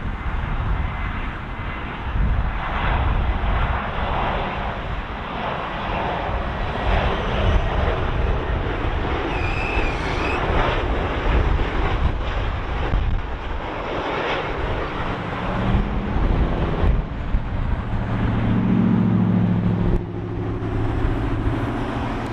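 Airbus A320neo jet airliner on its landing approach, its engines giving a loud, steady roar. A lower hum of several steady tones comes in near the end.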